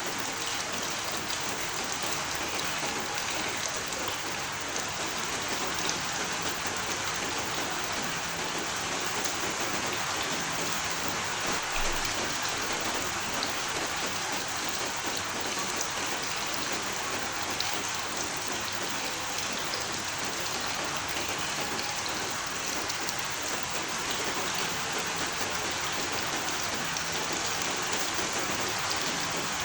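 Steady rain falling, a constant even hiss of drops with no change through the stretch.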